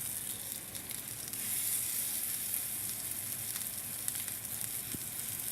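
Chicken pieces frying skin-side down in hot oil in a pan: a steady sizzle with small crackles and pops as the skin crisps.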